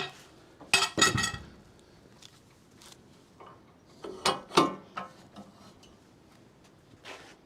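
Metallic clanks and rattles with a short ringing, as a log is shifted on the steel sawmill bed against its log stops. They come in two clusters, about a second in and about four seconds in, with a lighter knock near the end.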